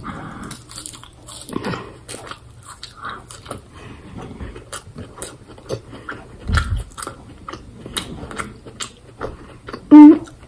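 Close-up chewing of lettuce and pasta: many small wet mouth clicks and crunches. A low thump comes about two-thirds of the way through, and a brief, loud pitched sound comes near the end.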